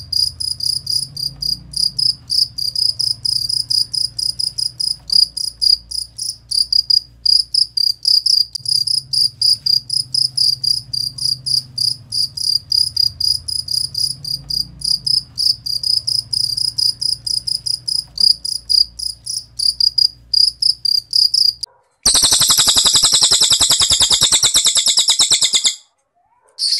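Cricket chirping in a fast, even run of high pulses that stops suddenly about 21 seconds in, replaced by the dense, high, buzzing trill of a cililin bird for about four seconds, then a short burst of the same trill at the end.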